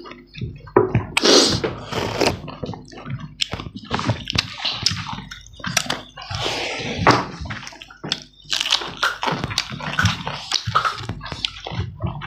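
Close-up eating sounds: chewing and lip-smacking on chicken and rice, with fingers squishing rice, in a quick irregular run of short clicks and smacks.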